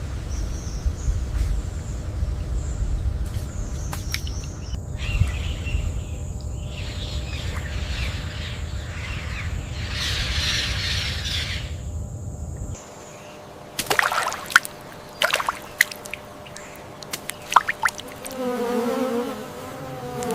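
Wild ambience: a low rumble under a steady high insect buzz, which cuts off suddenly about thirteen seconds in. A quieter stretch follows with a few sharp snaps or clicks, and near the end a wavering pitched call lasting about two seconds.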